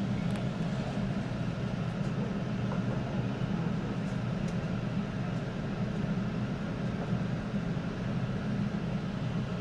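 Steady low rumble of a commuter train's bilevel cab car rolling along the rails, heard from inside the cab.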